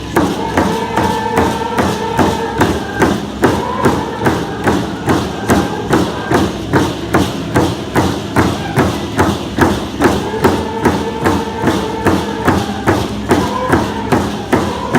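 Hand drums beaten together in a steady, even beat of about two strokes a second, with a group singing in long held notes over them for the first few seconds and again near the end.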